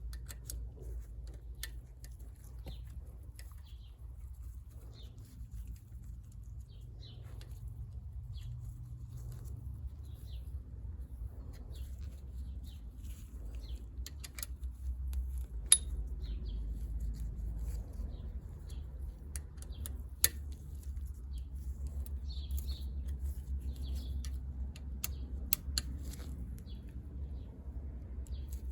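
Scattered light clicks and taps of small metal parts and tools being handled, with a few sharper clicks, over a low steady hum.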